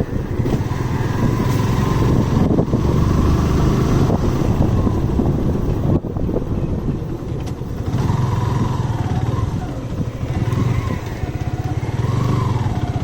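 Motorcycle engine running steadily while riding, with its level dropping briefly about halfway through before picking up again.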